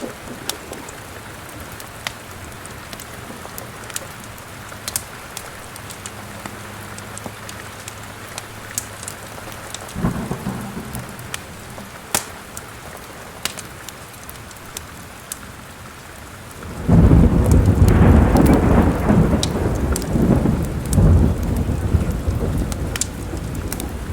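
Steady rain with the sharp crackles of a wood fire in a fireplace. A short low roll of thunder comes about ten seconds in, and a heavy, long thunder rumble begins about two-thirds of the way through and goes on to the end.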